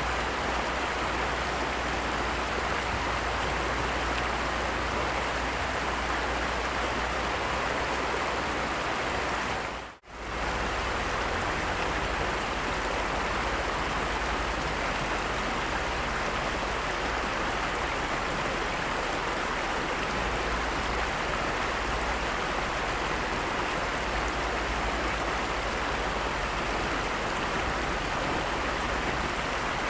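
Heavy rain falling steadily as an even hiss, briefly cutting out about ten seconds in.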